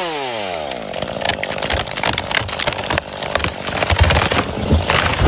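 A chainsaw comes off full throttle, its engine pitch falling over about a second. Then comes an irregular run of cracks, knocks and low rumbling.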